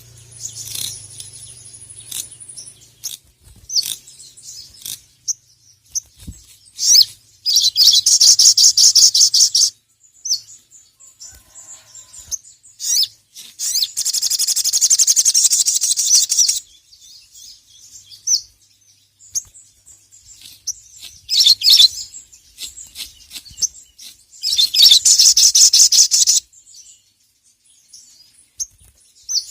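Sogon (sogok ontong) singing in full voice: three bursts of rapid, high-pitched chattering trills, each two to three seconds long, with short chirps and calls in between.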